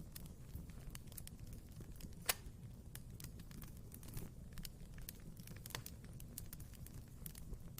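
Wood fire burning in a fireplace: a low steady rumble with scattered small crackles and one sharp loud pop a little over two seconds in.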